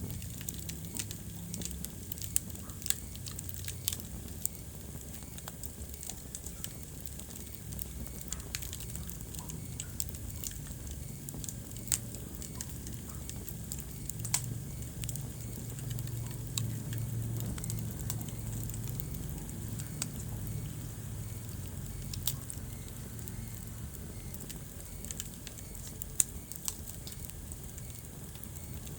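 Wood fire crackling in a fireplace: a steady low rush of flame under irregular sharp pops and snaps, with a few louder pops scattered through.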